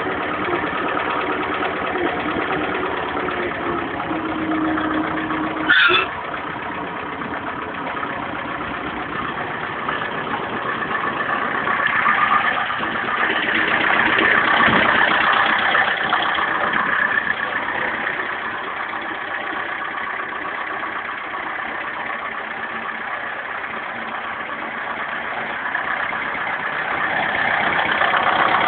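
Steyr 980 tractor's diesel engine idling as it warms up after a cold start. There is a sharp click about six seconds in, and the engine gets louder for a few seconds around the middle and again near the end.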